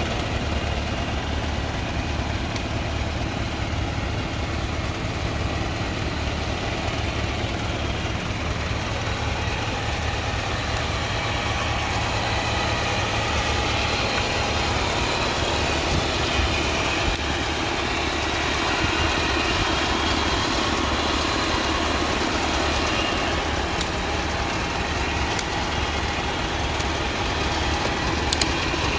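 Tractor engine running steadily with a low rumble, and a couple of sharp clicks near the end.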